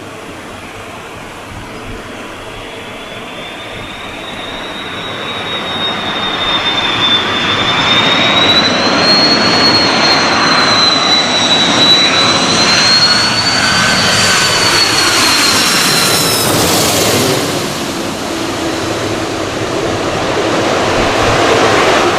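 Airbus A330-300 jet airliner with Rolls-Royce Trent 700 turbofans passing close by: a high fan whine that wavers and grows louder over about ten seconds, then falls away as the aircraft goes past, leaving a lower engine note that drops in pitch.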